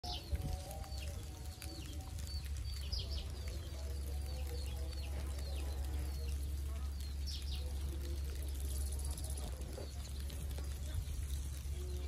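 Short high bird chirps every second or so, mostly in the first two thirds, over a steady low hum.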